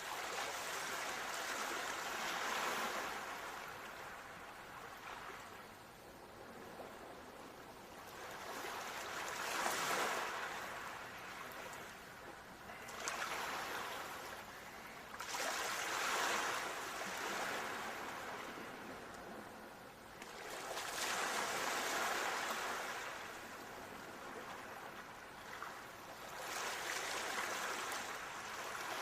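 Ocean waves washing onto shore, the surf swelling and fading in slow surges about every five to six seconds.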